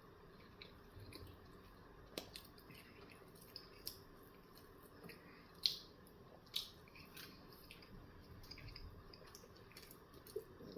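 Faint close-up chewing of a breakfast bagel sandwich: scattered wet mouth clicks and smacks, with two louder smacks a little past halfway.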